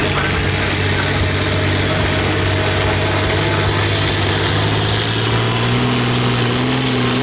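Hot stock pulling tractor's turbocharged diesel engine running hard under load down the pull track. Its engine note climbs a little near the end over a high, slowly rising turbo whine.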